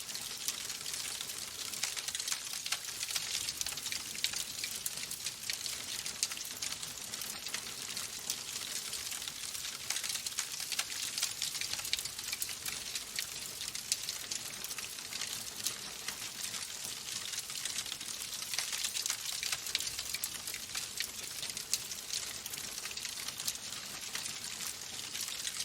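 Fire burning in a fireplace, crackling steadily with many small, dense pops and snaps.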